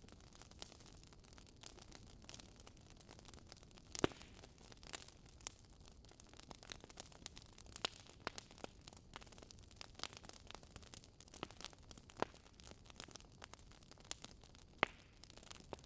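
Wood fire crackling in a fireplace: irregular sharp pops and snaps over a faint hiss, the loudest pops about 4 seconds in, around 12 seconds, and shortly before the end.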